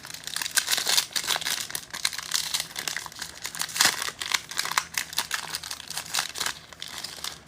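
Cellophane wrapper of an Optic football cello pack being torn open and crinkled by hand, a dense run of irregular plastic crackles.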